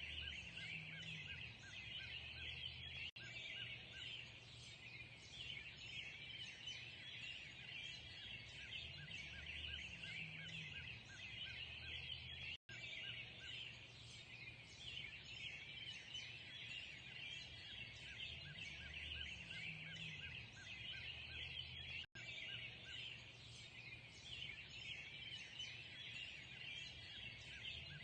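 A dense dawn chorus of many small birds chirping and singing in quick high notes without a break, with a faint low rumble beneath. Three brief dropouts cut the sound, about three, twelve and a half and twenty-two seconds in.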